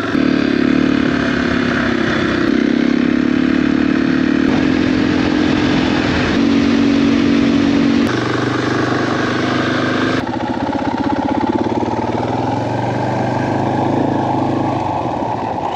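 Motorcycle engine running as the bike is ridden away, its note mostly steady with a few abrupt changes in pitch.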